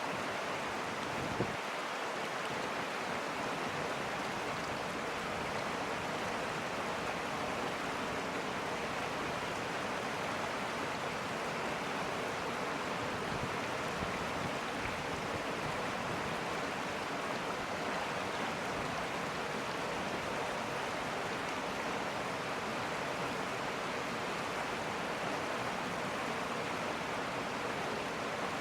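River water flowing, a steady unbroken rushing, with a single short click about a second and a half in.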